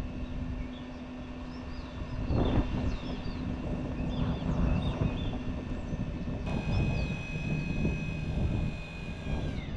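Traeger pellet grill running on high: a steady hum from its combustion fan. About two-thirds of the way through, a higher whine sets in and drops in pitch at the very end. The new fan motor's bearing turns out to be bad.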